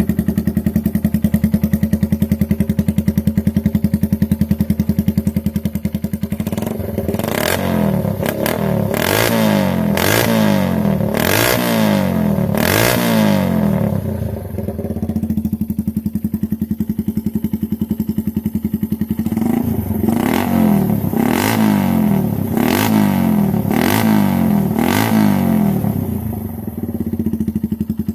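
Motorcycle engine idling, then revved in two runs of quick throttle blips about once a second, each blip with a sharp crack at its peak, dropping back to idle between the runs and near the end.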